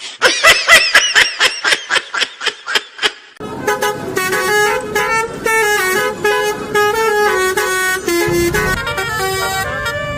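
A quick run of short pitch-bending tones, about four a second, then a multi-tone telolet bus horn playing a melody, note after note, from about three seconds in.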